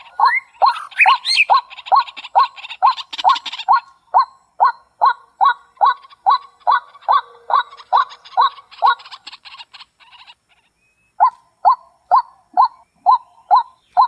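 A bird calling over and over in short, falling notes, about two to three a second, with higher chirps over them for the first few seconds. The calls stop for about two seconds a little past halfway, then resume.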